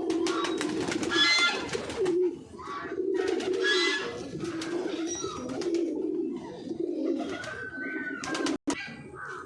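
Many pigeons cooing together in a steady, overlapping murmur, with a few higher calls over it. The sound cuts out for an instant near the end.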